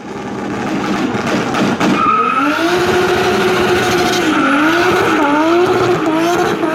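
A V8 muscle car doing a burnout: the engine is held at high revs while the spinning rear tyres squeal loudly with a wavering pitch that sets in about two seconds in.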